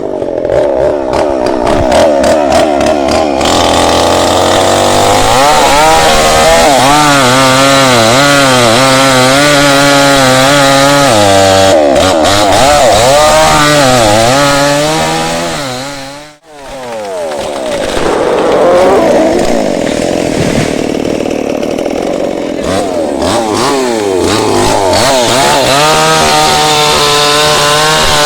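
Tanika MS 5800 two-stroke chainsaw running at high revs while cutting into a candlenut tree, its pitch sagging and recovering as the chain loads up in the wood. The sound drops out for a moment a little past halfway, then the saw runs on.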